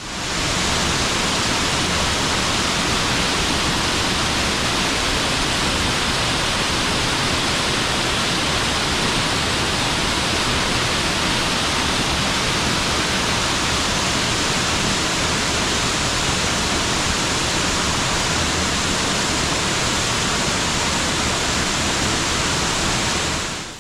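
Waterfall: a steady, full rush of falling water that fades in at the start and cuts off abruptly at the end.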